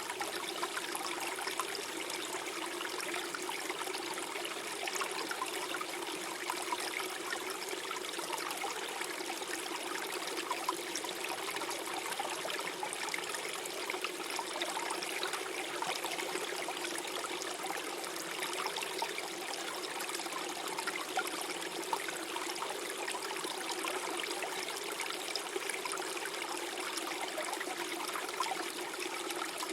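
Small forest stream flowing and gurgling over stones: a steady, even rush of water with constant small bubbling splashes.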